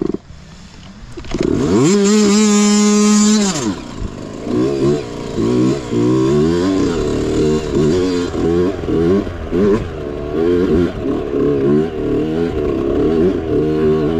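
Mini bike's small engine revving. It climbs sharply, holds high revs for about two seconds, then drops. After that the revs rise and fall over and over, about once a second, as the throttle is worked.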